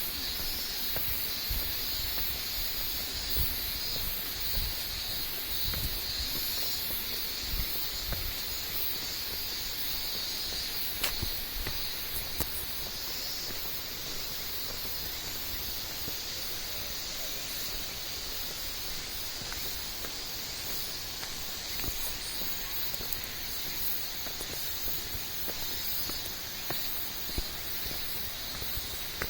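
Steady rush of the Minoo waterfall, with a high, even insect drone over it.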